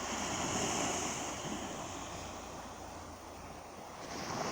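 Waves of the Sea of Azov washing on the beach, the surf swelling about a second in, easing off, then building again near the end.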